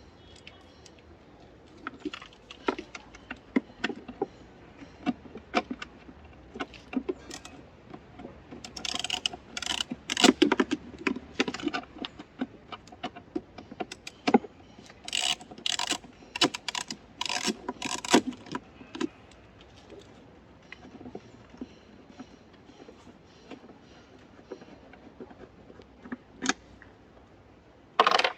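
Metal tools and parts clinking and rattling as they are handled, in irregular clicks and knocks that are busiest around the middle.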